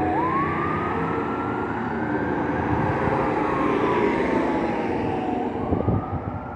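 Fire engine siren in a slow wail: it falls to its low point, sweeps back up, falls again over several seconds and starts rising near the end, over the engine and road noise. A few short knocks sound about six seconds in.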